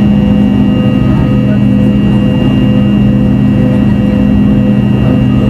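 Rolls-Royce Tay turbofan engines of a Fokker 70 running at steady power, heard from the passenger cabin: an even engine buzz with steady tones held over a constant rushing noise.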